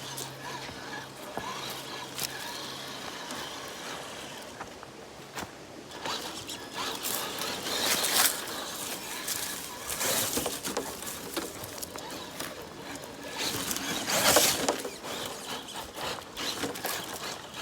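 Traxxas TRX4 RC rock crawler working over river rocks: irregular scraping and crunching of its tyres and chassis on stone, with louder scrabbling spells about eight, ten and fourteen seconds in.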